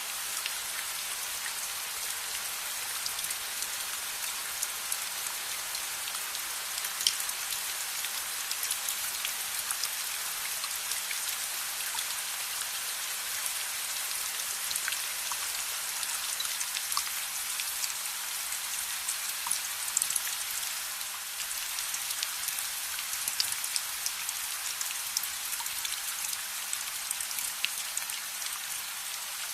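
Steady rain falling on a surface, a dense even hiss with scattered sharp ticks and pops through it.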